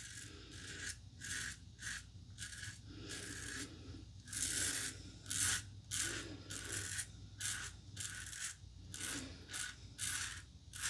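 Safety razor (The Razor Company Vanguard, standard plate) scraping through lathered stubble in a run of short strokes, about one to two a second, each a brief rasp as the blade cuts the beard.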